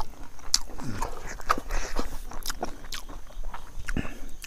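A person chewing a mouthful of rice with crispy Bombay duck fish pickle, giving irregular crunches and clicks.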